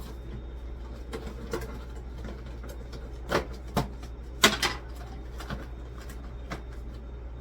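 Items being handled and set down during fridge cleaning: scattered light clicks and a few sharp knocks and clatters, the loudest about four and a half seconds in, over a steady low hum.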